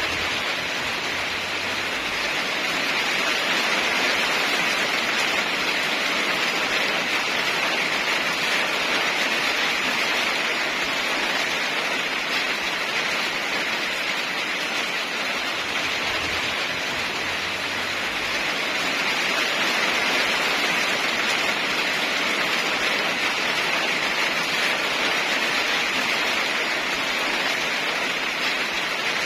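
Steady rain, an even hiss of falling water with no thunder.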